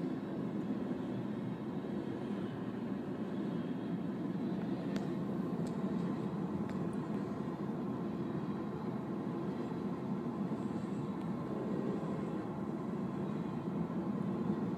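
Florida East Coast Railway freight train rolling past at a grade crossing: a steady rumble of the freight cars going by, heard muffled from inside a car.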